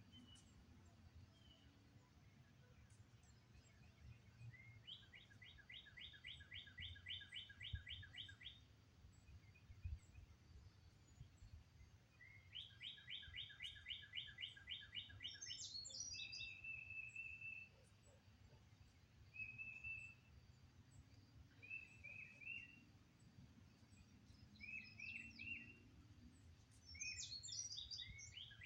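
Songbirds singing. Twice, a bird gives a phrase of about a dozen evenly repeated notes lasting three to four seconds. Between and after these phrases come shorter, higher chirps and brief phrases, all faint over a low rumble.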